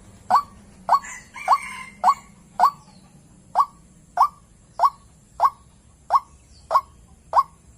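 White-breasted waterhen (ruak-ruak) giving its repeated call, a short upward-swept note about one and a half times a second, a call used as a trapping lure. A brief harsher noise comes about a second in.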